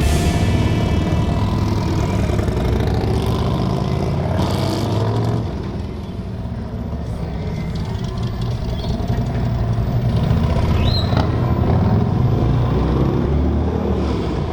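Motorcycle engine running, dipping about six seconds in and then rising in pitch and loudness as it accelerates.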